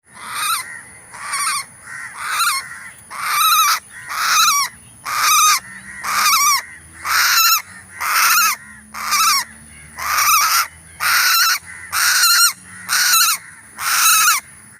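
A bird calling over and over, a harsh honking call repeated about once a second, some sixteen times.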